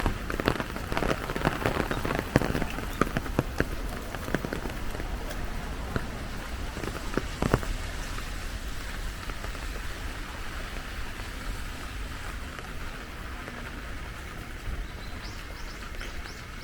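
Heavy rain falling, with many loud close drop strikes in the first half and a steady rain hiss after that.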